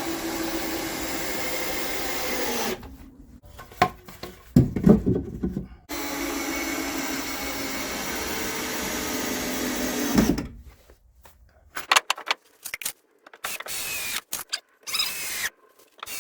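Power drill running twice in long steady pulls, about three and then four seconds each, as pieces of the wooden manger are fastened, followed by scattered knocks and clicks of wood and tools being handled.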